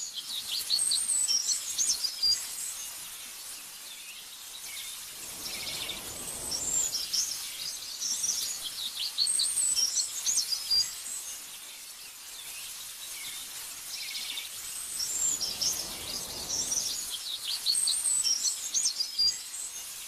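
Songbirds chirping in quick, high-pitched phrases, coming in three spells about nine seconds apart as the same stretch of song repeats. A soft rushing noise swells up twice between the spells.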